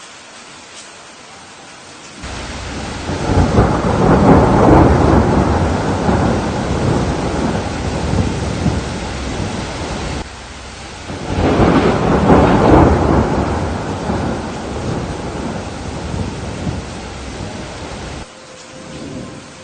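Steady rain with two long rolls of thunder, the first starting about two seconds in and the second about halfway through, each swelling and then slowly fading; each loud stretch starts and stops abruptly.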